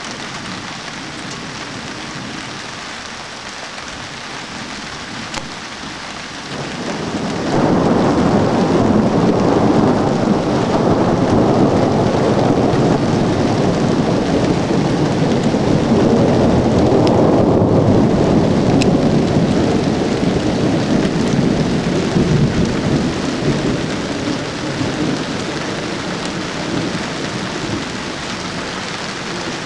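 Steady rain with a long rolling thunder rumble that builds about seven seconds in, stays loud for some fifteen seconds, then slowly dies away.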